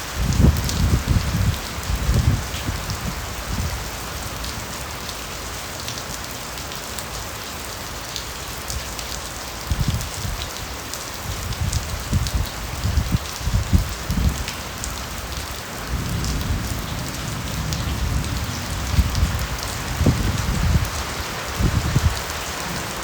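Steady rain falling in a bamboo forest: a constant hiss of drops with scattered sharper drop ticks. Irregular low rumbles swell and fade, strongest near the start and again through the second half.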